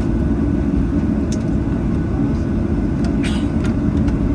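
Steady low rumble inside the cabin of a Boeing 737-800 taxiing to the gate, with a few faint clicks and a brief hiss about three seconds in.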